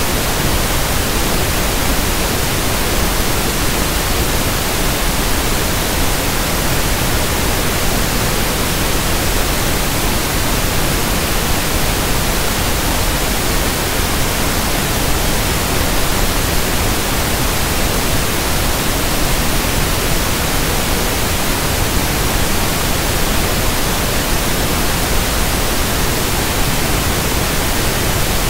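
Steady synthesized pink noise (1/f noise): an even, unchanging hiss across the whole pitch range, with no rhythm or events.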